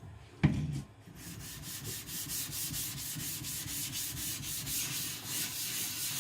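Wet whetstone being flattened: a single knock about half a second in, then quick, even back-and-forth rubbing strokes of stone on the flattening surface, about four a second.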